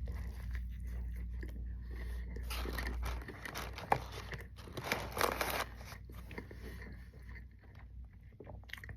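A person biting into and chewing a crispy fried chicken sandwich, with crunching about four to six seconds in, then quieter chewing.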